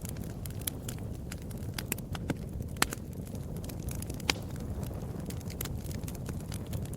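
Wood fire burning with a steady low rumble and frequent sharp crackles and pops, two of them louder, about three and four seconds in.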